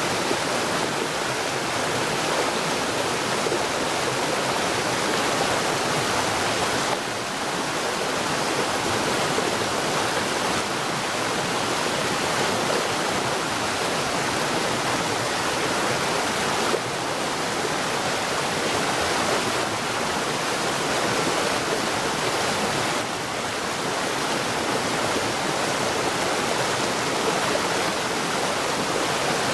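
Flowing water rushing in a steady, dense wash, with a few brief slight dips in level.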